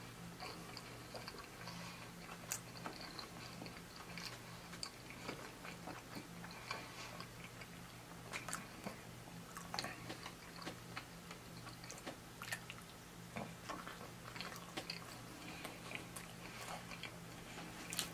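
A person chewing a double cheeseburger, with many small, irregular mouth clicks, over a low steady hum.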